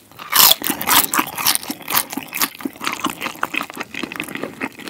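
Close-miked biting into and chewing a crisped chicken-skin dumpling: a crunchy bite about half a second in, then steady crackling, wet chewing.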